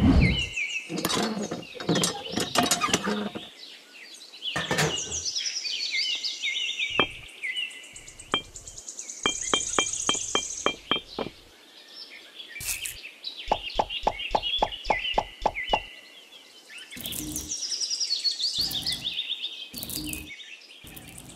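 Birds chirping and tweeting in quick high calls, over a series of sharp clicks and knocks, including a fast regular run of clicks about two-thirds of the way through.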